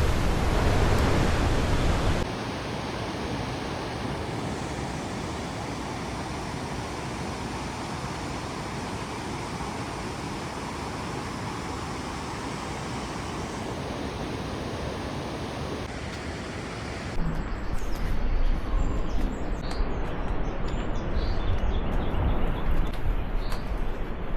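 Steady rush of falling water from the Ouzoud waterfalls, an even hiss that changes level abruptly at about 2 s. Near the end it gives way to wind buffeting the microphone, with small birds chirping.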